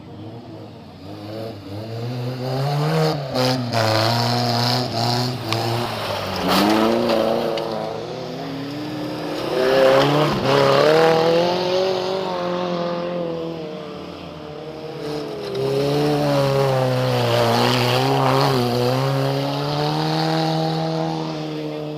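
Small-displacement race cars of the 1200–1800 cc class lapping a circuit. Their engines are loud, revving up and dropping back several times as they accelerate and shift through the gears.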